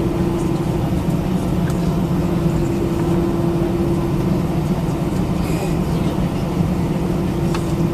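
Steady cabin hum inside an Airbus A319-112 on the ground after landing, with a held mid-low tone over a low rumble. A few faint clicks about five and a half seconds in.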